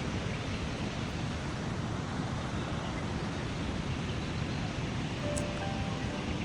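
River water rushing steadily, an even noise with most of its weight in the low end.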